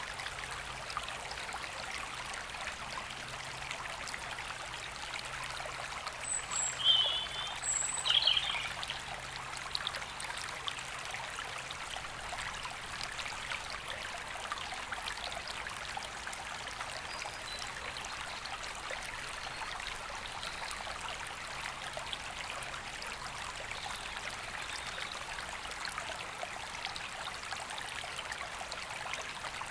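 A woodland river flowing steadily over stones. A bird gives a few short high chirps and warbled notes about seven and eight seconds in, and a faint thin whistle sounds later.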